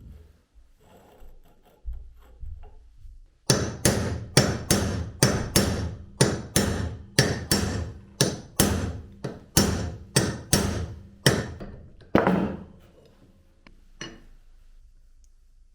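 Repeated hammer blows: about twenty sharp strikes at two to three a second, starting about three and a half seconds in and stopping around twelve seconds, followed by a few faint knocks.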